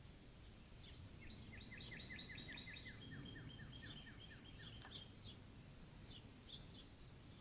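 A songbird singing: a fast run of short downslurred notes, about five a second, dropping to a lower series about halfway through, followed by a few scattered higher chips.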